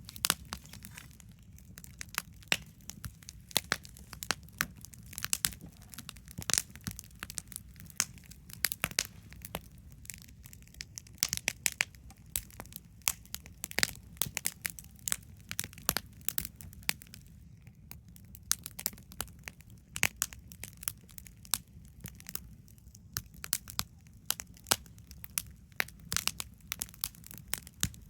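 Wood campfire crackling: irregular sharp snaps and pops, several a second, over a steady low rumble.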